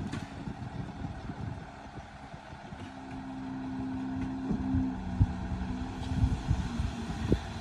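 Heavy diesel earthmoving machinery running, with a low rumble and scattered knocks. From about three seconds in, a steady engine tone comes in and shifts pitch as the machine works.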